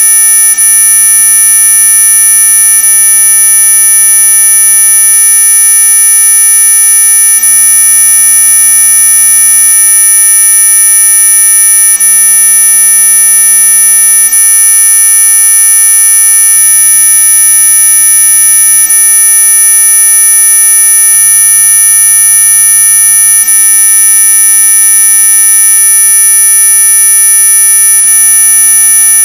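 Synthetic electronic tones sold as a mosquito-repellent sound: a loud, unchanging blend of several steady pitches at once. The strongest pitch sits very high, near the top of hearing, not truly ultrasonic.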